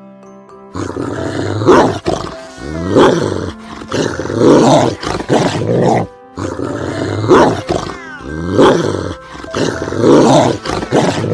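A large animal roaring and growling loudly, several calls in a row, over soft background music; the same run of roars plays again about halfway through.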